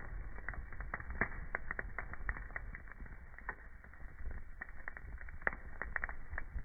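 Burning wood fire crackling: irregular sharp pops and snaps, several a second, over a low rumble, with one louder pop about five and a half seconds in.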